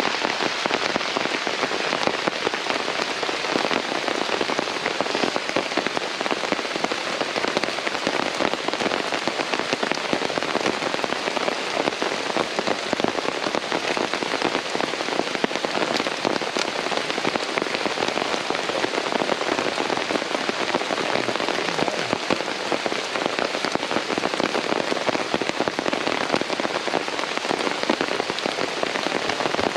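Steady rain falling, a dense, even patter of many small drops that does not let up.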